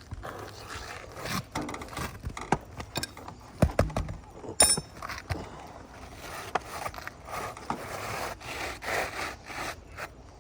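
Asphalt three-tab shingles being worked on a roof: irregular scraping and rubbing with scattered knocks, and a sharp click about four and a half seconds in.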